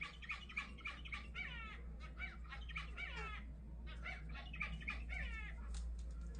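Zebra finches calling: a rapid run of short chattering calls, several a second, many of them sweeping down in pitch.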